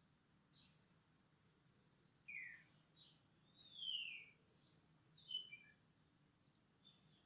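Faint birdsong: a quick phrase of high chirps and short whistled slurs, busiest from about two to six seconds in, with a few single chirps before and after.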